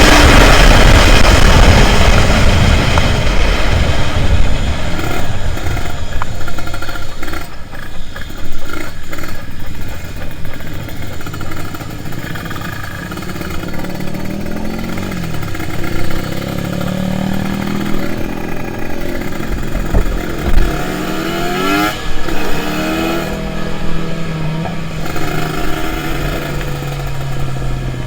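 Two-stroke motorcycle engine of a Kawasaki Ninja 150 RR revving, its pitch climbing and dropping several times before settling to a steadier note near the end.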